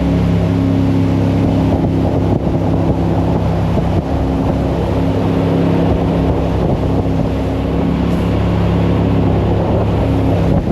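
Jet boat engine running steadily at speed, a continuous even drone.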